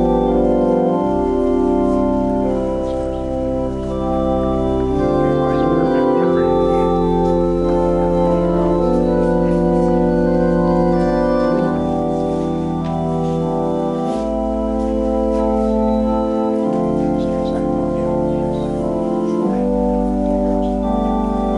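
Organ playing slow, sustained chords over a deep bass line, the harmony changing every few seconds.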